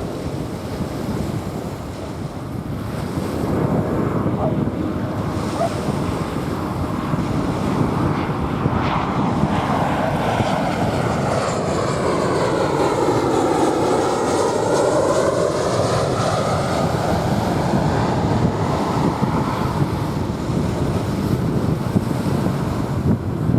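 A jet airliner passing over, its engine noise swelling for several seconds, peaking about halfway through in a sweeping whoosh that dips and rises in pitch, then fading. Waves wash on a sandy beach and wind buffets the microphone underneath.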